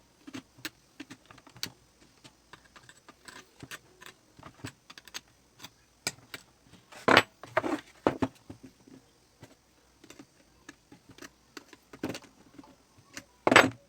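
Scattered small clicks and taps of a fan's plastic and metal parts and a small tool being handled during reassembly, with a few louder knocks about seven, twelve and thirteen and a half seconds in.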